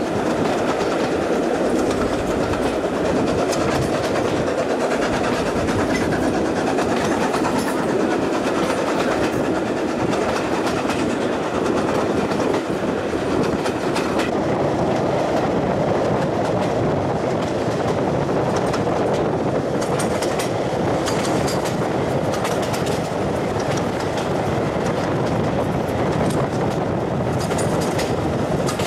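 Steam-hauled passenger train running at speed, heard from a carriage window: a steady rumble of wheels on the rails, with clickety-clack over rail joints and sharper clicks coming more often in the second half.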